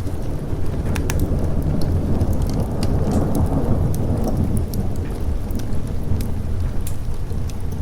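Thunder rolling over steady rain, the deep rumble swelling to its loudest about three to four seconds in. Sharp crackles from a fireplace snap on top throughout.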